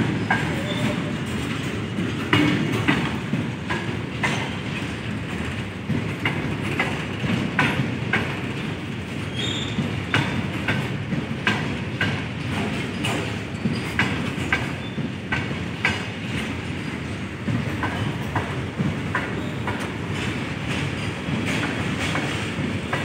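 A very long goods train of covered box wagons rolling past: a steady rumble of wheels on the rails with sharp clicks as the wheels cross the rail joints, and a brief high squeal about nine seconds in.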